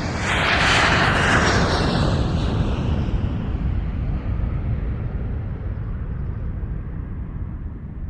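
Jet aircraft passing during takeoff: a loud rushing engine noise with a faint whine, loudest about a second in, then slowly fading as it falls in pitch.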